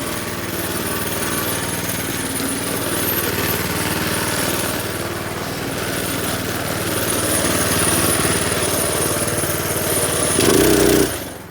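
Small minibike engine running steadily while being ridden, getting a little louder about eight seconds in. Near the end it swells into a short louder burst, then drops off suddenly.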